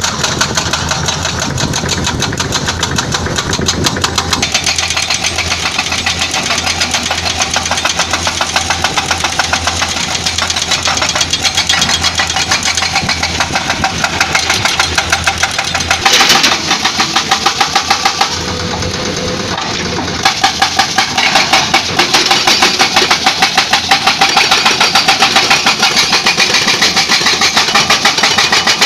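Excavator-mounted hydraulic breaker hammering rock in rapid, evenly spaced blows over the excavator's diesel engine. The hammering stops for about two seconds around two-thirds of the way in, then starts again.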